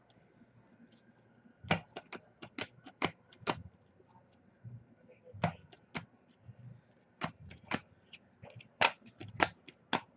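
Trading cards being flicked through by hand, a run of sharp, irregular snaps and clicks in small clusters.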